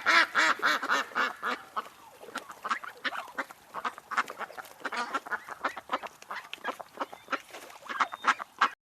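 A flock of birds calling: many short calls in quick succession, overlapping, loudest in the first second or so.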